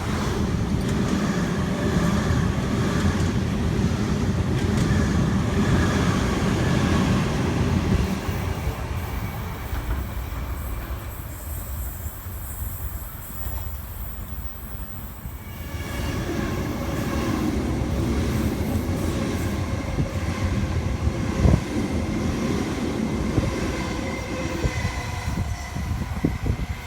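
Sydney Trains Waratah A-set electric train passing through the station on the near track, fading after about eight seconds. A second electric train, a Millennium M-set express, then passes from about sixteen seconds in, with a steady whine over the rumble of the wheels.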